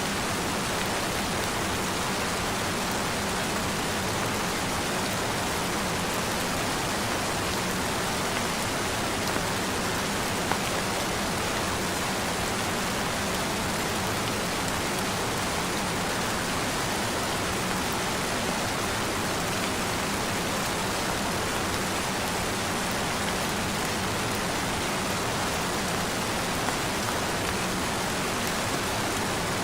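Steady, even rain sound, a continuous dense hiss with no individual drops standing out.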